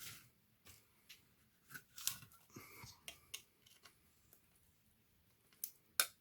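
Small sharp clicks and a brief scrape from hand work on laptop parts: plastic and metal pieces being handled and worked with small tools, the loudest click near the end.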